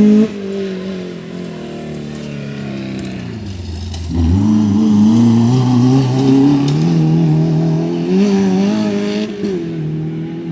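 Off-road race car engine running hard: its note sinks over the first few seconds, then about four seconds in the car accelerates and the engine rises louder and climbs in pitch, holding high before easing off near the end.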